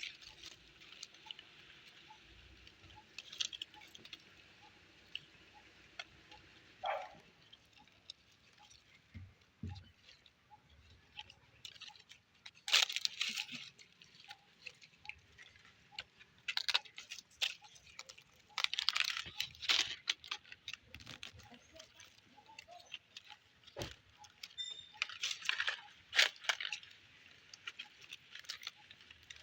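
Puppies moving about: scattered scratching, rustling and clicking sounds that come in clusters, with one short falling squeak about seven seconds in.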